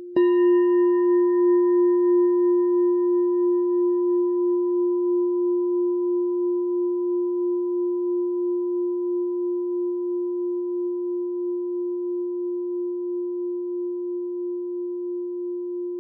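Meditation bell struck once just after the start, then ringing on with a strong low tone that fades slowly, with a gentle waver. The brighter upper tones die away within a few seconds, and it is still ringing at the end.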